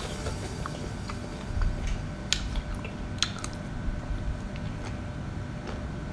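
Close-up eating sounds: biting soft, slippery seafood off a skewer and chewing it with the mouth open, wet smacking broken by a few sharp clicks, the loudest two about two and three seconds in.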